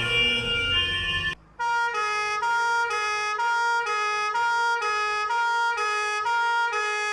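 Two-tone emergency-vehicle siren, switching between a high and a low note about twice a second. It cuts in after a short break about a second and a half in; before the break, the tail of another siren over a low traffic rumble.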